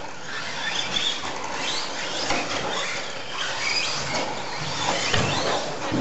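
Several RC stadium trucks racing, their motors whining high and rising and falling in pitch as they speed up and slow down, with a thump about five seconds in.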